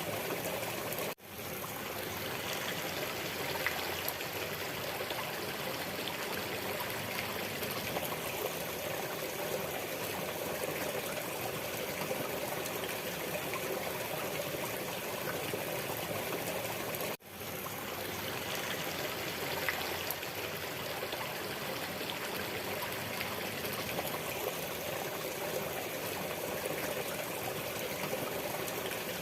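Waterfall running steadily, an even rush of falling water that drops out for an instant twice, about a second in and again about 17 seconds in.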